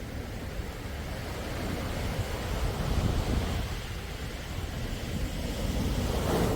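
Waves of a calm sea washing in, a steady rushing that swells about three seconds in and again near the end.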